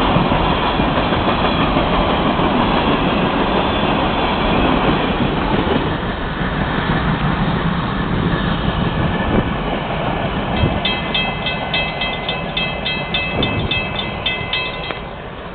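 Florida East Coast Railway freight train's last cars rolling past over the rails, the rumble slowly fading as the train clears the crossing. For the last few seconds a grade-crossing bell rings fast and evenly, then stops as the gates lift.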